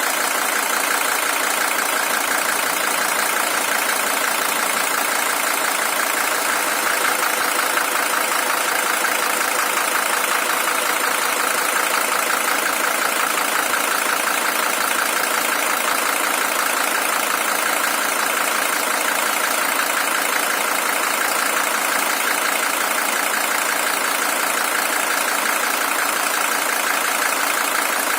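Mercedes-Benz OM617 five-cylinder diesel engine idling steadily. It is the original engine, at 620,000 km.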